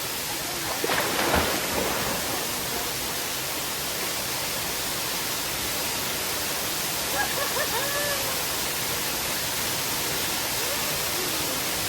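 Stream water rushing steadily, an even, unbroken wash of noise.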